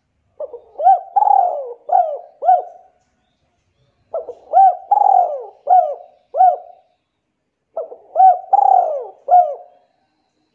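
A bird calling: three similar phrases, each of about five quick notes that rise and fall in pitch, separated by pauses of about a second.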